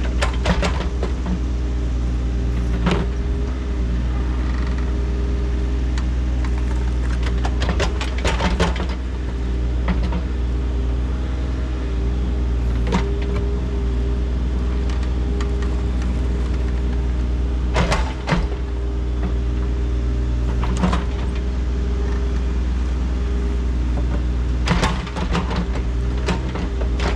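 Engine of an earthmoving machine running steadily, with short bursts of clanking and scraping every few seconds as the bucket works through dirt and debris.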